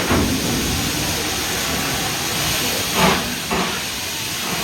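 Steady hiss and running noise of a moving steam train heard from on board, with a brief louder surge about three seconds in.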